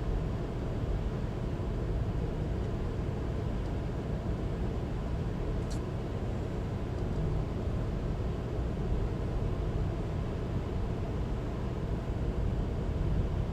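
Steady low rumble of a train, with one faint brief click about six seconds in.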